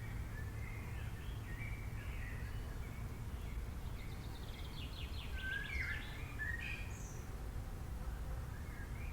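Wild birds chirping and calling, with several short chirps and a quick rapid trill in the middle, over a steady low background rumble.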